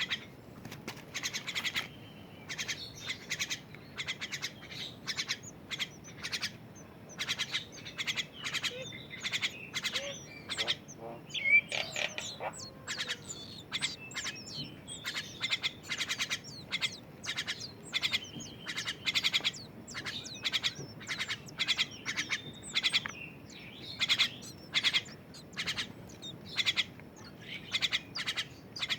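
Twelve-day-old thrush (anis) chick chirping: short, high calls repeated several times a second in runs, throughout. A louder single call comes about eleven seconds in.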